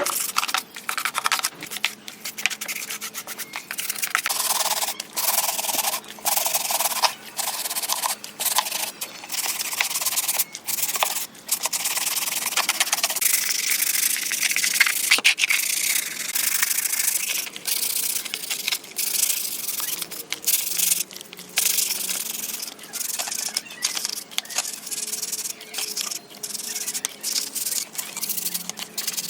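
Hand abrasive work on a surface, most like sandpaper rubbing, in irregular back-and-forth strokes with short pauses throughout; a dry, hissy scraping with no motor.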